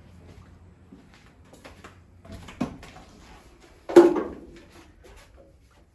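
Scattered knocks and clicks of handling, with a sharper knock about two and a half seconds in and a louder thump about four seconds in that dies away quickly.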